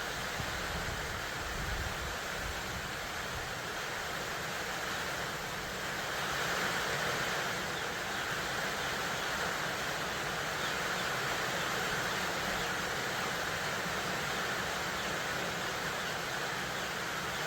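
Steady background hiss with no distinct events, slightly louder from about six seconds in.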